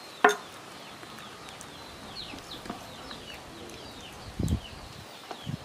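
Small birds chirping, many short falling calls, with a sharp click just after the start and two low thuds near the end.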